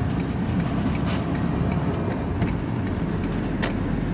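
Steady low rumble of a vehicle's engine and road noise heard from inside the cab while driving, with a couple of light clicks or rattles.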